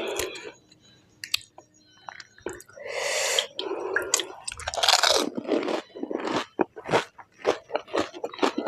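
Close-up eating of crisp pani puri: a crunching bite into the fried puri shell, then steady chewing at about two chews a second.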